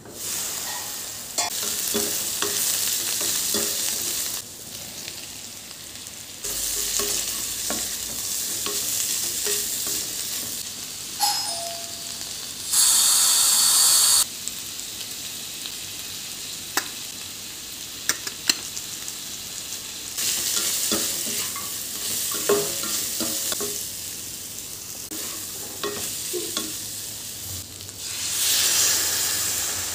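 Food sizzling as it fries in a pan, with a spatula or spoon clicking and scraping against the pan while it is stirred. The sizzle grows much louder for about a second and a half near the middle.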